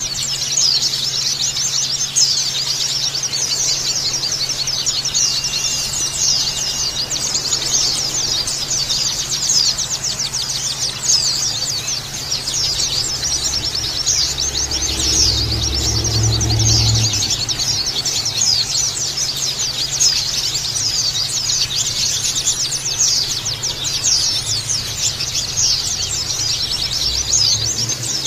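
A flock of white-eyes (pleci) chirping together in a dense, unbroken chorus of rapid, high twittering. A steady low hum runs underneath, and a low rumble comes in about thirteen seconds in and stops about four seconds later.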